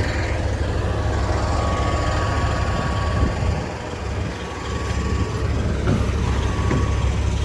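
A large engine running steadily at idle with a low rumble and a faint steady whine. It dips briefly about four seconds in, with a few light clicks near the end.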